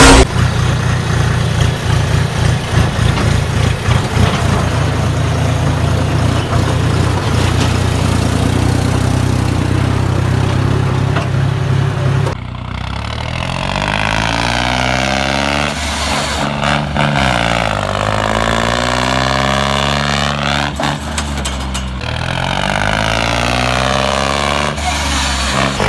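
Tractor's diesel engine running hard at steady speed. From about twelve seconds in it revs up and down several times.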